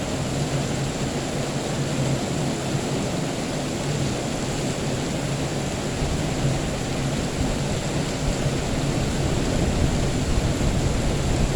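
Steady heavy rain hissing, with a low rumble of distant thunder building in the second half.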